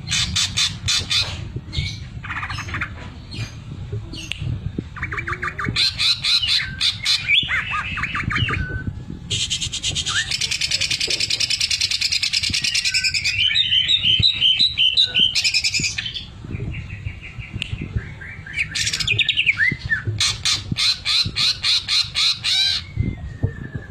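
Green leafbird (cucak ijo) singing hard, in fast rattling trills and harsh chattering phrases, with a long rasping passage in the middle. Some trills are the machine-gun-like rattle that keepers prize as sewing-machine mimicry. A steady low hum runs underneath.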